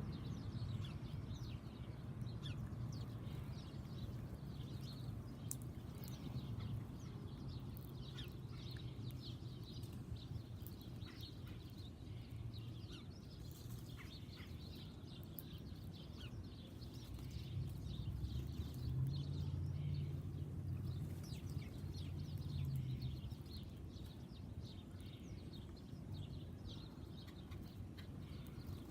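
Several small birds chirping in quick, short calls throughout, over a steady low hum that grows louder for a few seconds past the middle.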